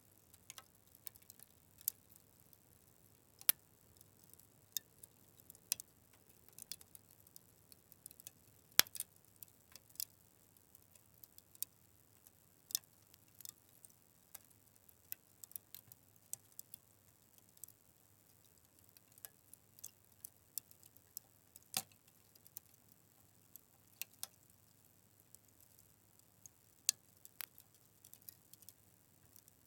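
Fire crackling: irregular sharp pops and snaps at uneven intervals, a few louder ones standing out, the loudest about nine seconds in.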